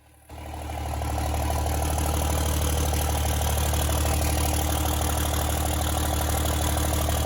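Cummins turbo diesel engine of a 2006 Dodge Ram idling steadily: a deep drone with a fast, even diesel clatter over it.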